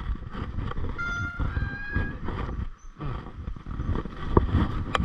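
Mountain bike being ridden over a rough trail: wind rumble on the microphone and the bike rattling over the ground, with a short high squeal about a second in and a few sharp knocks near the end.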